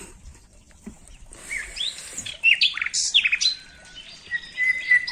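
Birds calling: short rising whistles, chirps and quick trills that start about a second in and come thick and fast through the rest.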